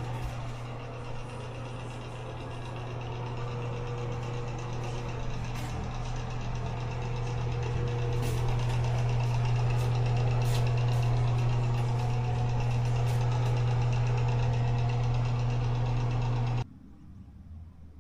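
Steady low mechanical drone with a faint higher hum over it, growing a little louder over the first half, then cutting off abruptly near the end.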